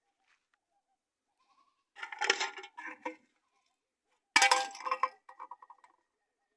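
An animal bleating twice, in two loud wavering calls about two seconds apart, the second a little longer.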